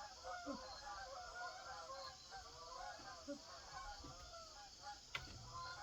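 A flock of geese honking, many short overlapping calls at once, faint and unbroken; a single sharp click about five seconds in.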